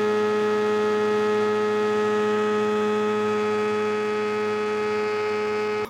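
Blender motor running at one steady pitch, churning a thick frozen smoothie-bowl mix; it starts and cuts off abruptly.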